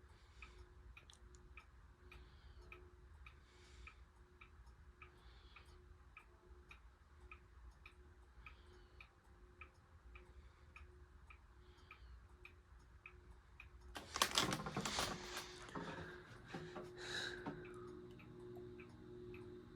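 SMC A52 ceiling fan running with a faint steady motor hum and a light regular tick about twice a second. About fourteen seconds in comes a loud clatter lasting a few seconds, after which the hum carries several more tones, as the fan is switched to a higher speed.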